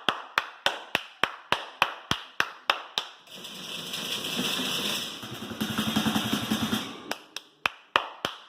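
Sharp bangs at about three a second, noise made to test puppies' reaction to loud sounds. About three seconds in they give way to several seconds of dense rattling, and the bangs start again near the end.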